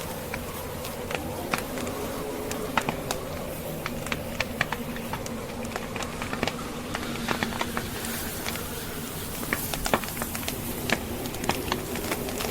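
Wood logs burning in a fireplace, crackling with irregular sharp pops several times a second, over the steady low drone of blizzard wind.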